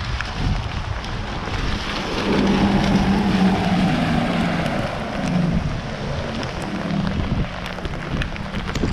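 Heavy rain falling, with a low rumble swelling from about two seconds in and fading by about seven seconds.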